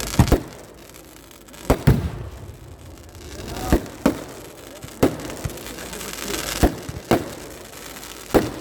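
Festival fireworks going off: about ten loud, sharp bangs at uneven intervals, some in quick pairs, with a noisy wash between them.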